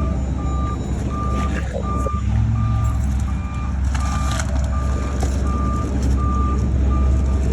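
Vehicle backup alarm beeping steadily, about one and a half beeps a second, over the low, steady rumble of an idling truck engine, with a brief knock or two about halfway through.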